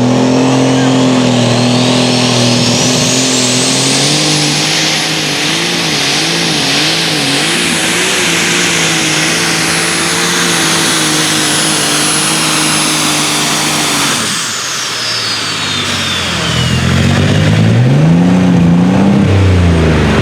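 Turbocharged diesel engine of a light super stock pulling tractor at full power under load. A high turbo whine climbs over the first four seconds, holds, then falls away about fourteen seconds in as the engine comes off power, and the engine pitch wavers midway. Near the end an engine revs up and down in short blips.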